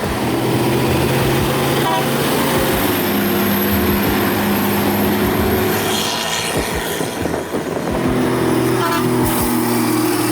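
A vehicle engine running steadily, its note holding then shifting in steps, with brief rattles twice.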